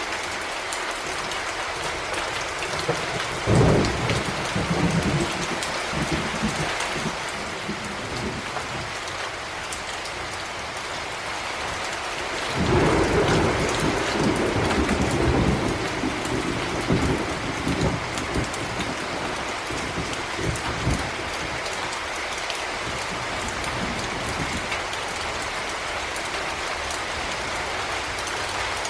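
Heavy rain falling steadily, with thunder rumbling twice: a short loud peal about three and a half seconds in and a longer rolling rumble starting about twelve seconds in that dies away over several seconds.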